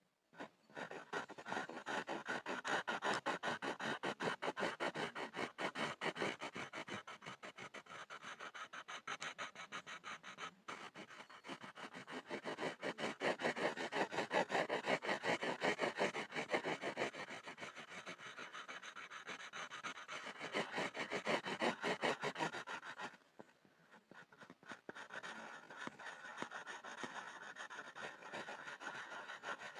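Pencil scribbling on a board in rapid back-and-forth strokes, a dense run of scratches. It drops off briefly about three-quarters through, then carries on more softly.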